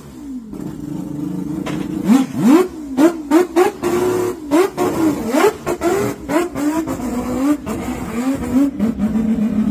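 Mitsubishi L300 engine through its loud exhaust, revved in a rapid series of throttle blips that rise and fall in pitch, with sharp cracks among them. It settles to a steady idle near the end.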